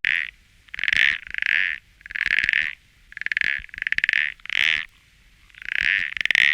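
An animal calling over and over in short, buzzy, rasping calls, about nine of them, several coming in quick pairs.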